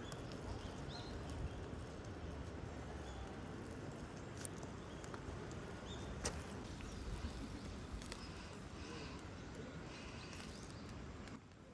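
Steady outdoor background rush with a few short, high bird chirps and scattered sharp clicks; it drops off suddenly shortly before the end.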